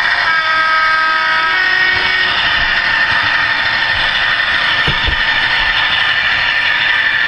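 Hornby Class 60 model diesel locomotive's sound decoder playing its engine sound through the model's small speaker as it runs, heavy in the upper middle and thin in the bass. A short pitched tone comes near the start, and a single low knock about five seconds in.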